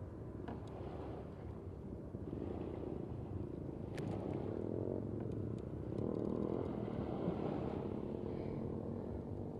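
An engine running steadily, its pitch rising and easing off a couple of times, with a single sharp click about four seconds in.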